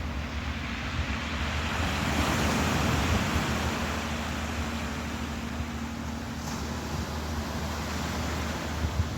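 Sea waves washing, with a swell building to its loudest about two seconds in and easing off, over a steady low rumble.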